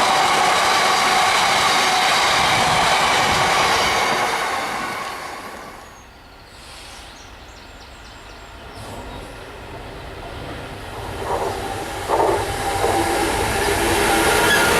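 A passing train, loud with steady high ringing tones from its wheels on the rails, dying away about four to six seconds in. After a quieter stretch another train approaches, with a few knocks around eleven and twelve seconds in, and is loud again near the end.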